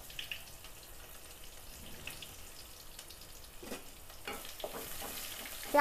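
Sliced onion frying in hot ghee with mustard seeds, cumin and crushed garlic in an aluminium pot: a quiet, steady sizzle with scattered small pops and crackles. This is the tadka (tempering) for dal.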